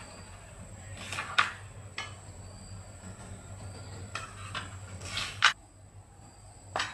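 Metal tools and engine parts clinking and knocking against each other during hand repair work on a water pump engine: a handful of separate knocks and a short scrape, over a steady low hum.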